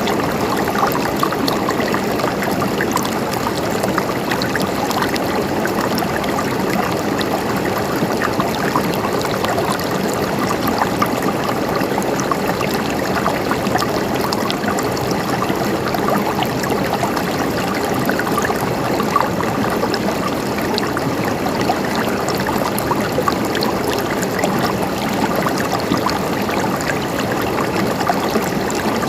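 River water flowing steadily over stones, a constant rushing and babbling with small splashes throughout.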